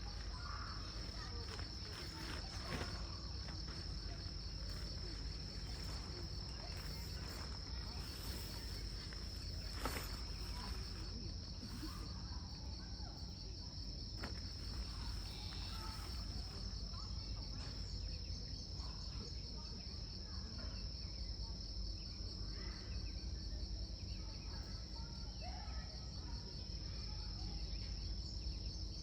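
Insects, crickets by their sound, calling in a steady high-pitched trill that runs on without a break, over a low steady rumble, with a few faint clicks about a third of the way in.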